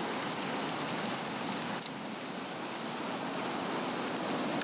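Swedish torch log fire burning from the inside: a steady rushing flame sound with faint scattered crackles, dipping slightly about two seconds in.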